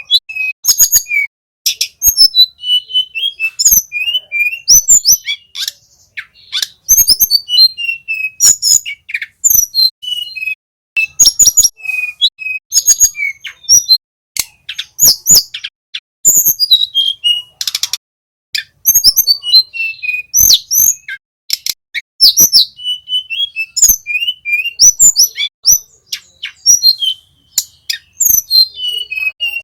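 Flycatcher song: fast runs of sharp, high chirps and short downslurred whistles, delivered in phrases with brief pauses between them.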